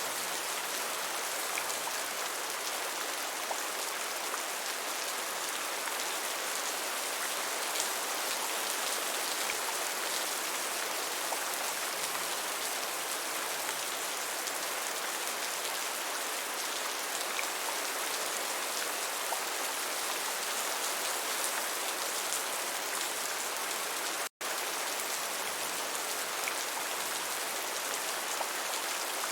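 Steady rain falling: an even hiss with faint drop ticks. The sound drops out completely for a split second about 24 seconds in, then resumes unchanged.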